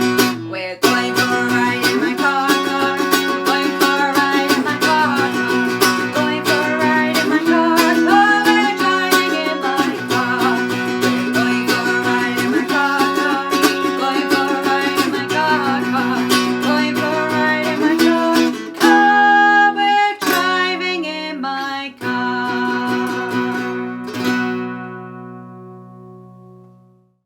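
Strummed acoustic string instrument playing steady chords. Near the end it plays a few punctuated strokes, then a last chord rings out and fades away.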